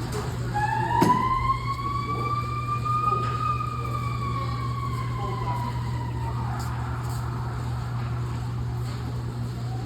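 Fire truck siren winding up once to a peak about three seconds in, then slowly winding back down and fading, over the steady low rumble of the apparatus's diesel engine.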